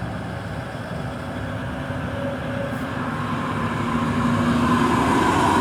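A heavy vehicle's engine hum over road noise, growing slowly louder, like a truck or traffic approaching on the highway.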